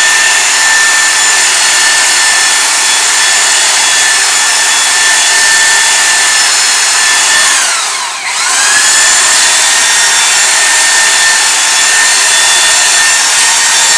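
Electric belt sander running under power with a steady high whine, being worked over a secured workpiece. About eight seconds in, the motor winds down almost to a stop and then spins back up to full speed.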